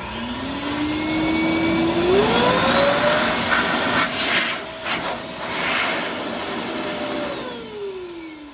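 High-velocity pet grooming dryer's blower motor switched on, with a whine that rises as it spins up and steps up to a higher speed about two seconds in, over a loud rush of air. It holds steady through the middle with a few knocks, then winds down near the end.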